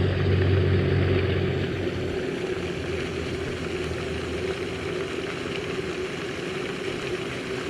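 A steady engine drone, with a deeper hum that fades after about two seconds.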